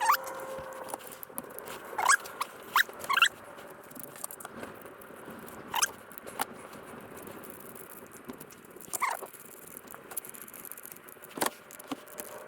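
Hand work on a Stihl MS390 chainsaw's carburetor and intake parts: a scattered series of short clicks and squeaky scrapes as small parts are handled and fitted.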